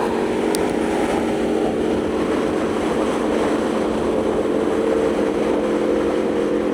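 Aprilia Tuono V4's V4 engine running at a steady cruising speed, with wind and road noise on the rider's microphone.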